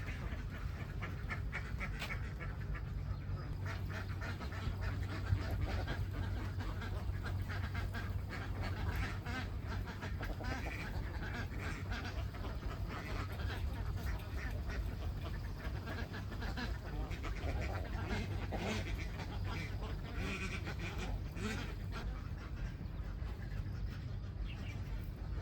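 A large flock of domestic ducks quacking, many calls overlapping continuously, over a steady low hum.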